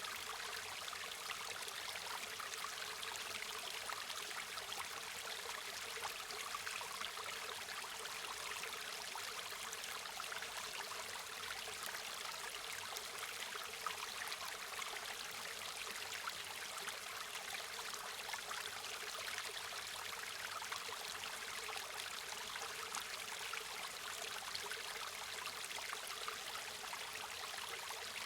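A river stream flowing steadily, a continuous rushing and trickling of water with no pauses or changes.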